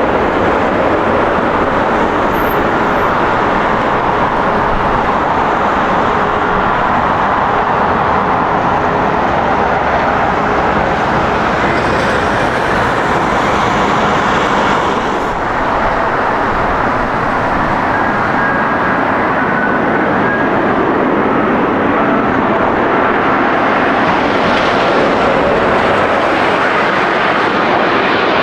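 Jet airliner engines heard at close range: a loud, steady roar with faint whining tones in it, dipping slightly about halfway through.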